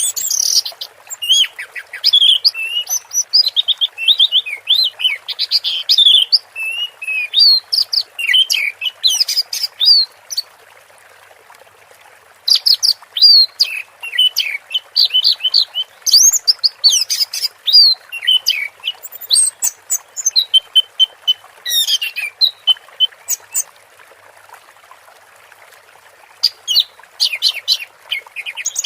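Orange-headed thrush singing a fast, varied song of high whistled phrases in bouts, with pauses of a couple of seconds between them, over a steady faint hiss.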